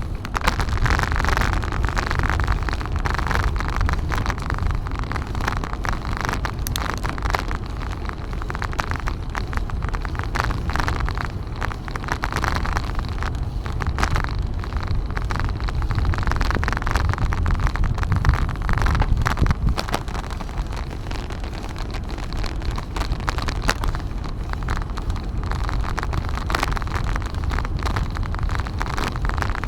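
Wind buffeting the microphone of a camera on a moving bicycle: a steady low rumble with a hiss that swells and fades every few seconds, with road and traffic noise beneath it.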